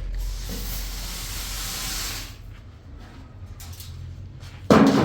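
A hiss lasting about two seconds, then a sudden loud knock near the end.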